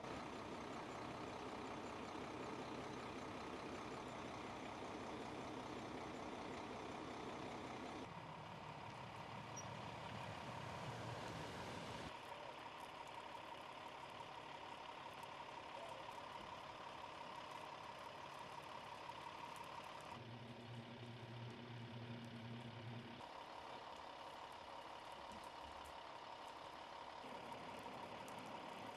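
Faint outdoor field sound of vehicle engines idling, a steady hum under background noise. The sound changes abruptly several times as shots are cut together. A thin steady high tone runs through the middle stretch.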